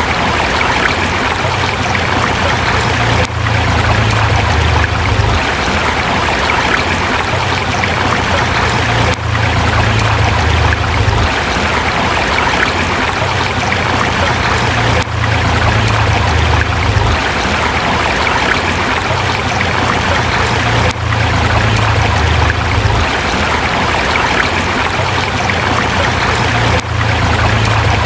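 Forest river flowing over rocks: a steady, loud rushing of water with a low rumble underneath. The sound dips briefly about every six seconds.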